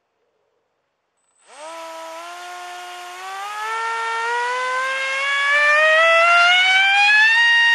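Brushless 3650 3400kv inrunner motor spinning a 6x5 propeller. It starts about a second and a half in with a whine, then rises steadily in pitch as the throttle is opened, and holds at full throttle near the end.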